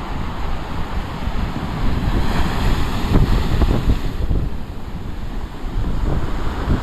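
Big storm waves surging and breaking, with wind buffeting the microphone; the surf swells to a peak about two to four seconds in, then eases.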